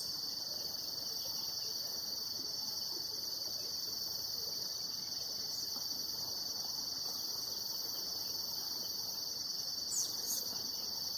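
Steady, high-pitched insect chorus, crickets trilling without pause, with a couple of short high chirps near the end.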